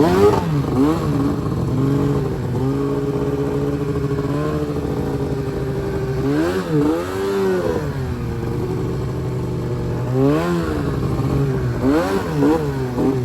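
Arctic Cat M1000 snowmobile's two-stroke engine running under throttle. Its revs rise and fall sharply several times as the throttle is worked, between steadier stretches.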